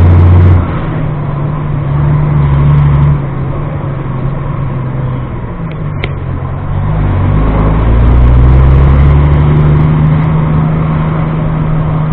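Truck engine running while driving, heard from inside the cab. The engine note drops about half a second in and again around three seconds, then builds again from about seven seconds. Two short clicks come just before and at about six seconds.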